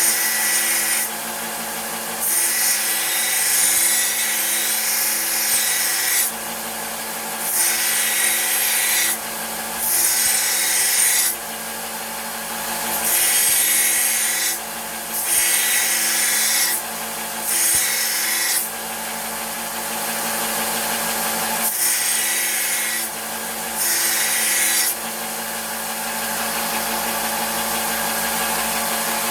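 Belt sander running steadily while the edge of a steel meat cleaver is pressed against the belt in repeated grinding passes, about eight of them, each one to four seconds long; the sander runs on its own near the end. The passes grind a new bevel onto the chipped edge.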